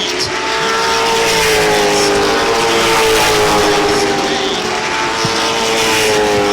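Late model stock cars' V8 engines running on the track, a steady engine note that swells toward the middle and then eases, its pitch drifting gently up and back down.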